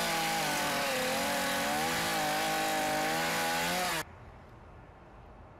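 A small engine running loud with a slightly wavering pitch, over a hiss. It cuts off abruptly about four seconds in, leaving a much quieter steady background noise.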